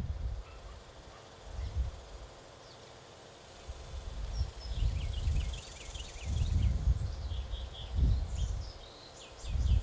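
Small birds chirping at a backyard bird feeder, a flurry of short, quick calls starting about halfway through, over intermittent low rumbles.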